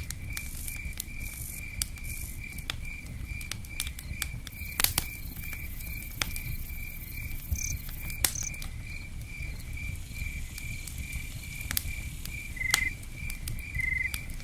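Campfire crackling with scattered sharp pops over a steady low rumble, while a cricket chirps evenly about twice a second.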